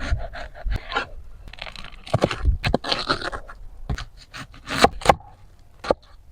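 Food-preparation handling sounds: irregular sharp clicks and knocks mixed with short scraping and crunching, as food and utensils are worked by hand.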